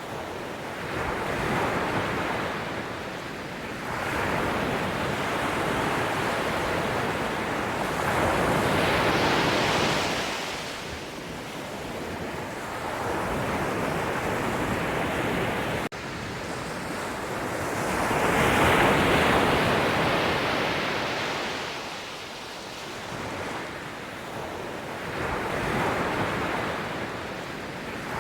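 Sea waves breaking and washing on a shore, the surf swelling and falling back every several seconds, with one momentary drop-out about halfway through.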